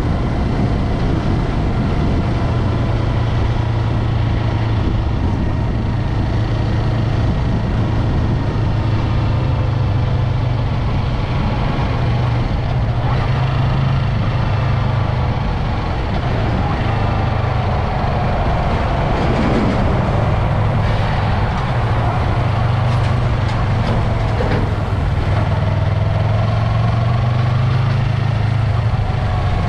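Yamaha MT-03 motorcycle's parallel-twin engine running steadily while riding, heard over road and wind noise, with a few smooth rises and falls in pitch in the second half.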